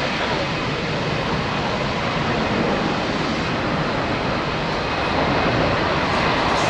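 Boeing 717 airliner's two Rolls-Royce BR715 turbofan engines running as it lands, a steady rushing jet noise that grows a little louder about five seconds in.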